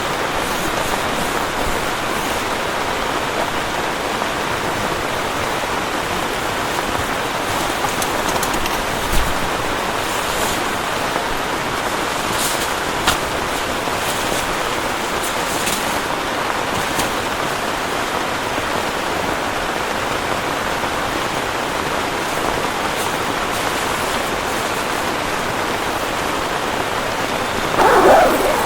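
Heavy rain falling steadily. There are a couple of short knocks partway through and a louder brief noise near the end.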